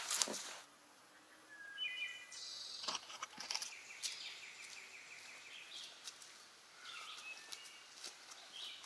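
Songbirds calling in woodland: a few short high chirps, then a fast repeated trill lasting about two seconds, and a lower chirp later on. At the very start, footsteps in wet mud.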